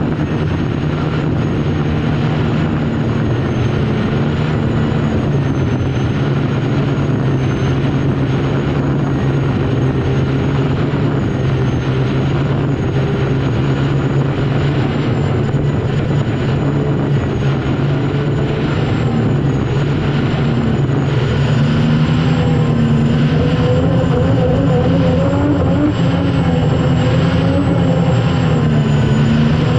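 Unlimited hydroplane's Lycoming T55 gas turbine engine running at race power, recorded onboard, with a thin high whine that wavers slightly over a steady low engine sound. It grows a little louder over the last several seconds.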